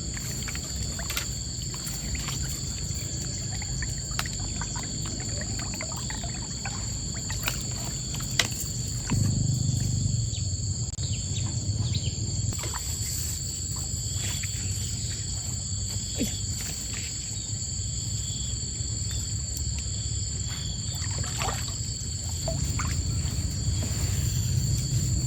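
Outdoor ambience by a mountain stream: a steady low rush and a steady high-pitched drone, with scattered small clicks and knocks. The low rush swells about nine seconds in and again near the end.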